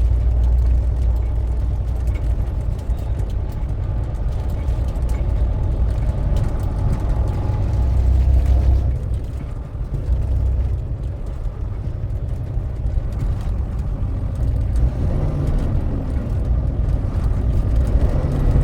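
Steady low rumble of a truck's engine and road noise while driving.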